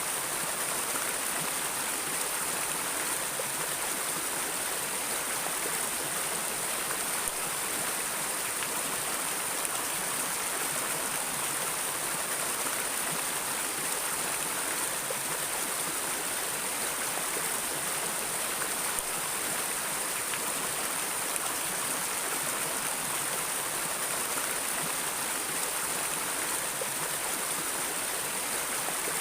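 Flowing water running in an even, unbroken rush, with a bright hiss on top.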